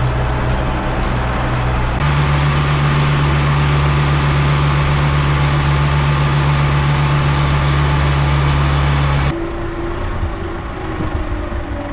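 Boat engine running steadily, with abrupt changes about two seconds in and again near the end, where it drops to a quieter running note.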